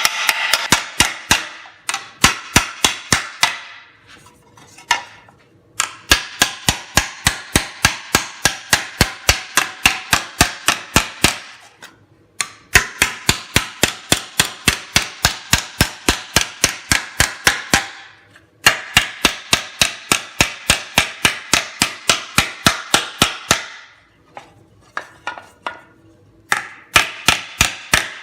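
Rounded-end body hammer striking sheet metal on a dished Delrin plastic shaping stump. It goes in steady runs of about three blows a second, broken by short pauses, and each blow rings bright and metallic. The blows stretch the metal and roll its edge into a tight curve.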